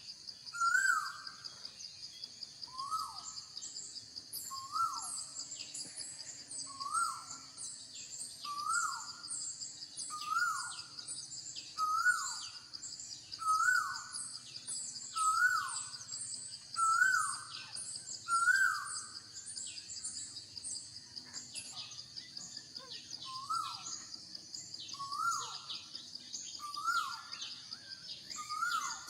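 Outdoor animal chorus. One bird repeats a short hooked call, up then down in pitch, about every second and a half, pausing for a few seconds past the middle. Over it run many quick high chirps and a steady, pulsing insect-like buzz.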